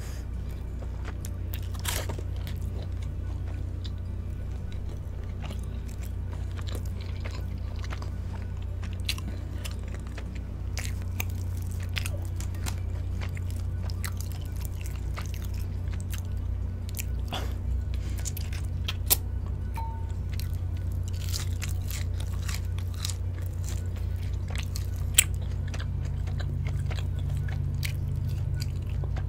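Close-up eating sounds of cheesy Korean fried chicken being bitten and chewed: crunching, wet mouth sounds and scattered sharp clicks, over a steady low hum.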